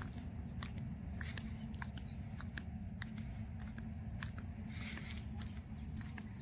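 Insects chirping in the fields: a regular series of short, high chirps, about two a second, over scattered clicks and a steady low rumble.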